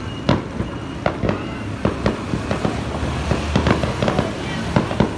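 Fireworks display: aerial shells bursting overhead in a run of sharp bangs and crackles, a few a second at uneven spacing.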